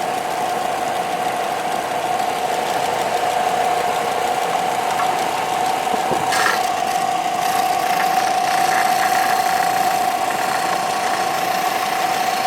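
A motorized machine running steadily, with a constant whine and no change in speed; a couple of brief higher-pitched sounds come in about six and a half seconds in.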